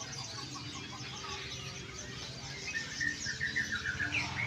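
Many caged songbirds chirping and twittering at once. About three seconds in, one bird starts a louder, rapid series of repeated chirps.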